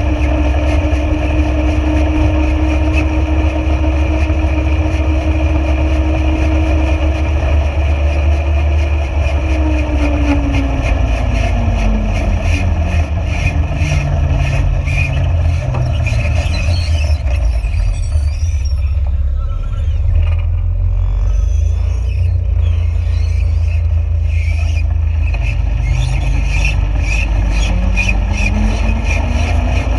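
A motor vehicle driving with a continuous low rumble. Its engine note slows and drops in pitch over several seconds, stays low through the middle, then climbs again near the end as it picks up speed.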